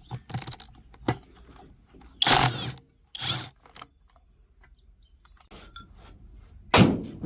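Hand tools working metal parts of a small engine: scattered light clicks and taps, two short rasping strokes about two and three seconds in, and a loud knock near the end.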